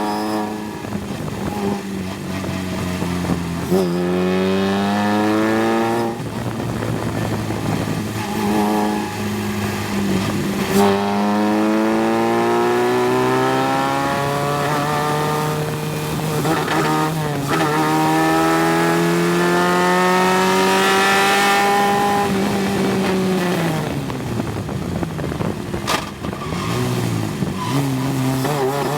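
Single-seater race car engine heard on board, pulling up through the gears: its pitch rises in a run of sweeps, each broken off briefly at an upshift, then drops away about three-quarters of the way through as the car slows, before picking up again near the end.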